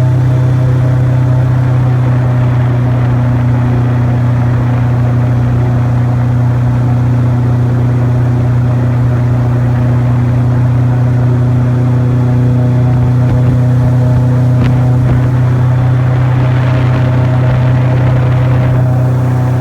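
Airboat's engine and air propeller running at a steady cruising speed: a loud, even drone. A wider rushing noise comes in briefly about three-quarters of the way through.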